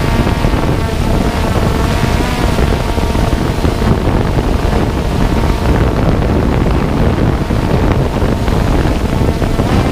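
Strong wind buffeting the microphone. Underneath it is a faint, steady whine from the Hubsan X4 Pro drone's motors and propellers, which fades after the first couple of seconds.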